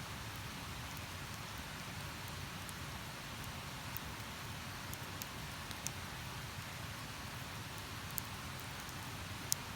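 Campfire crackling, with a few sharp, scattered pops over a steady rushing hiss.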